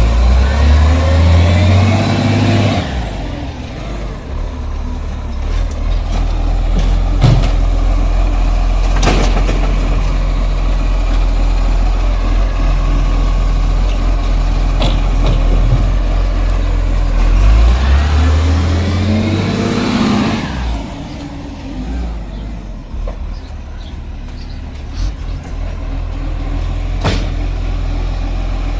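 Garbage truck's diesel engine idling, revving up briefly at the start and again about eighteen seconds later as it works the hydraulics while emptying bins. A few sharp knocks come in between.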